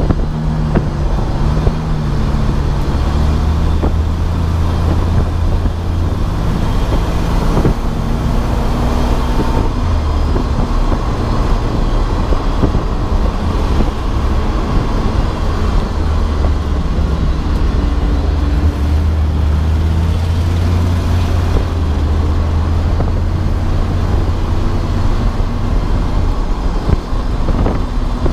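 Race car engine running hard at speed, its low drone stepping up and down in pitch a few times with throttle and gear changes, over steady road and wind noise.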